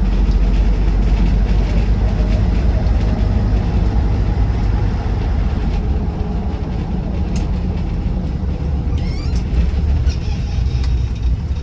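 Land Rover Defender 90 TD5's five-cylinder turbodiesel running on the move, heard from inside the cab as a steady low rumble mixed with tyre and road noise from its slightly aggressive tyres.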